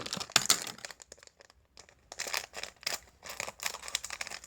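Scissors snipping through crinkly packaging: a string of short, sharp cuts and crackles, with a lull about a second and a half in.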